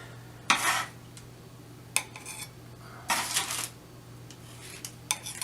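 Kitchen dishes and utensils handled while powdered sugar is sprinkled over cookies: a few brief scraping sounds and a couple of sharp clicks against a dish, over a steady low hum.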